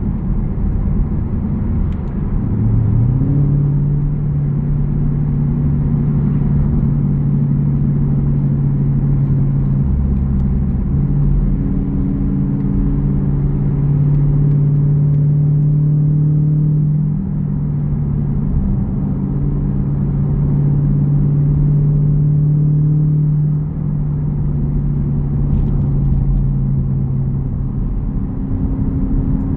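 Jeep Grand Cherokee's 5.7 Hemi V8 exhaust rumbling while driving, the engine note climbing about three seconds in, then holding steady with two short dips later on as the throttle eases.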